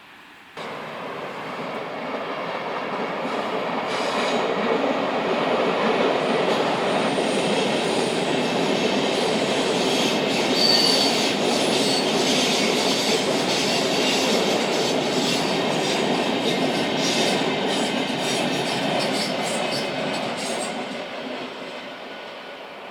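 A train passing close by on the tracks, its wheels running over the rails with a clickety-clack of rail joints. A brief high wheel squeal comes about 11 seconds in, and the noise fades near the end.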